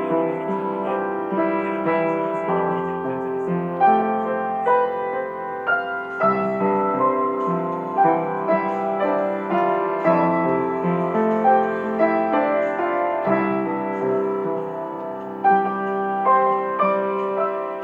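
Instrumental piano music: a slow, gentle piece of sustained chords and melody notes.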